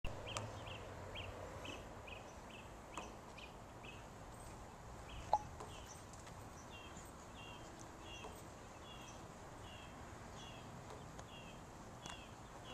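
A bird chirping over and over at a steady pace: short high notes about three a second, then from about seven seconds in paired notes about two a second. One sharp knock stands out about five seconds in.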